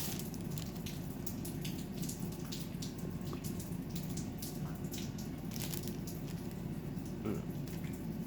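Faint scattered clicks and crinkles from a cookie being handled and eaten, over a steady low rushing background noise.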